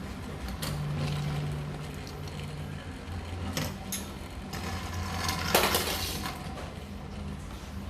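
Die-cast 1:64 toy monster trucks knocking and clattering against each other and a hard surface: a few scattered clicks, with the loudest clatter about five and a half seconds in, over a steady low hum.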